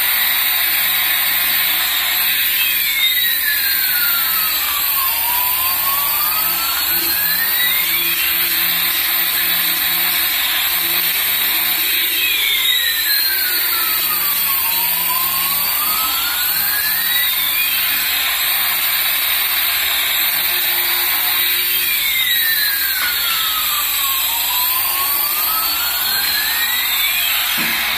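Battery toy's electronic jet-engine sound effect: a steady hiss with a tone that sweeps down and back up about every ten seconds, three times over.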